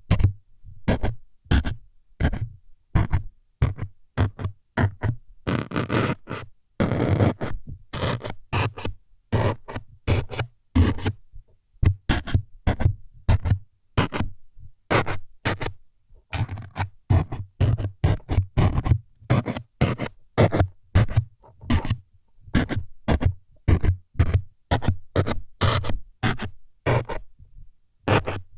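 ASMR needle-stabbing sounds: quick scraping jabs, about two to three a second, with one longer drawn-out scrape about six seconds in.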